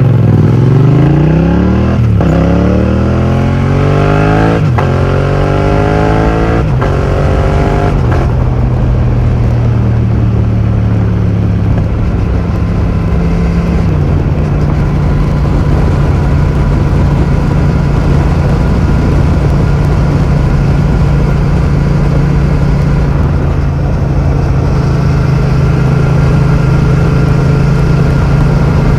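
2020 Yamaha MT-07's parallel-twin engine through an Akrapovic full titanium exhaust with the dB killer removed, accelerating hard with four quick upshifts, each a rise in pitch cut off by a short drop. It then settles to a steady cruise.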